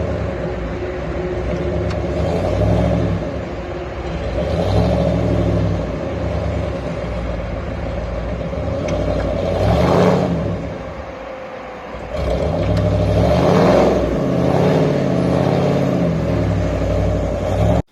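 Truck engine revving hard under load while straining to pull a trailer up a hill, its pitch rising and falling, with louder surges about ten and fourteen seconds in. It cuts off abruptly at the end.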